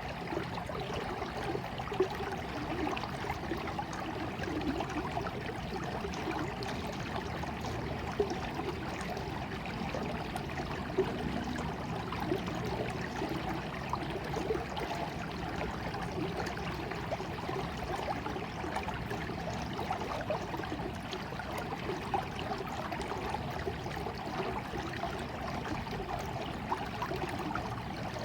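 Water flowing in a stream, trickling and gurgling steadily, with a few brief louder splashes.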